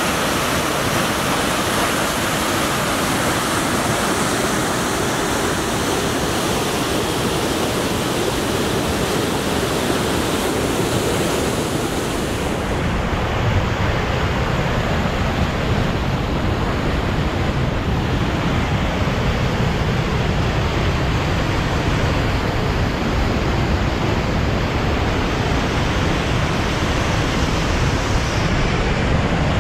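Steady roar of rushing water from the Maligne River in the canyon gorge below the trail. About twelve seconds in it turns duller, losing its highest hiss.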